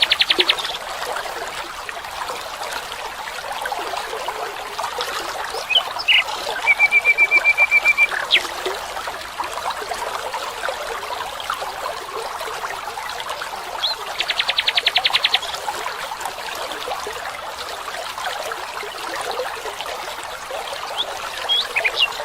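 Water trickling and running steadily, with birds calling over it: a fast rattling trill near the start and again about halfway through, and a short run of evenly spaced whistled notes a few seconds in.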